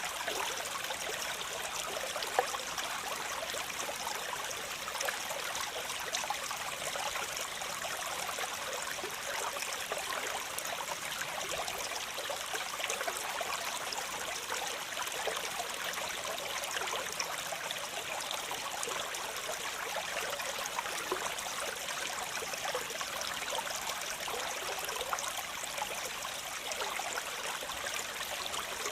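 Waterfall water splashing steadily, a bright, hissing rush with little low rumble.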